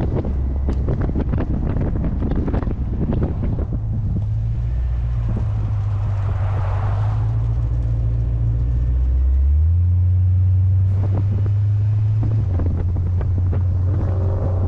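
Small-block 350 V8 of a modified C3 Corvette running steadily on the road, heard over heavy wind buffeting on the microphone. The gusting is strongest in the first few seconds, and the engine note shifts to a new steady pitch about ten seconds in.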